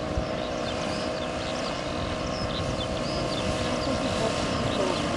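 Giant-scale radio-controlled Transall C-160 model's propeller engines running with a steady hum.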